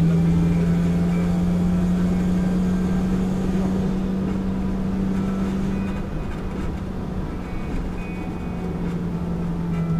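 Car engine droning steadily at cruising speed, heard from inside the cabin over road and tyre noise; it eases a little about six seconds in.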